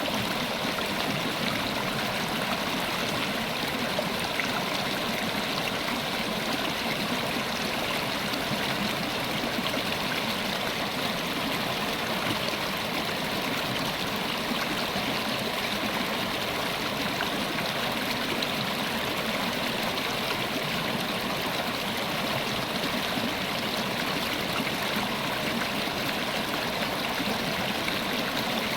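River water flowing steadily over rocks, a continuous rushing and trickling with no change in level.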